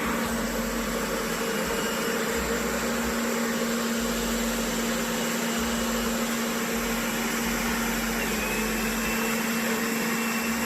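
Steady car noise heard from inside the cabin: engine and road noise with an even hiss and a constant low hum.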